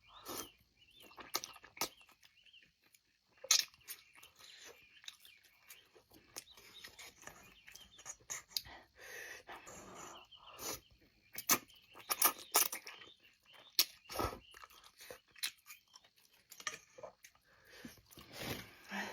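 A person chewing food close to the microphone: irregular wet chewing with sharp crunches and mouth clicks.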